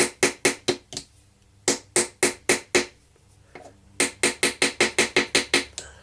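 Small hammer striking a metal chisel into a dig block: quick, sharp taps about five a second, in three runs broken by short pauses about a second in and around three seconds in.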